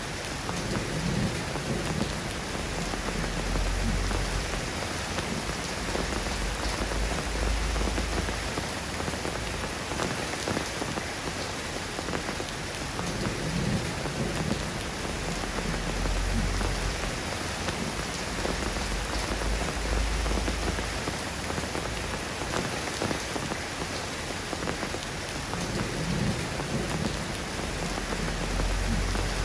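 Steady rain falling on surfaces, an even hiss of drops, with low rumbles swelling and fading about four times.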